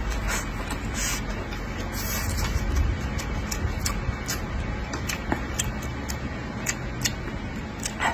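Close-miked mukbang eating sounds: a man chewing braised pork belly, with a run of irregular mouth clicks and smacks and a few brief sucking noises, over a low steady rumble.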